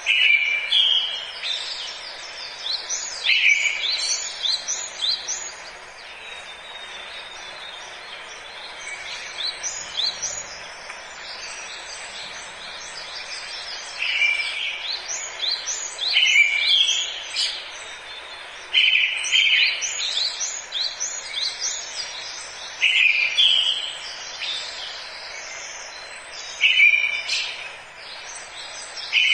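Forest birdsong: several birds chirping in quick short notes, with a louder call repeated every few seconds, over a steady background hiss.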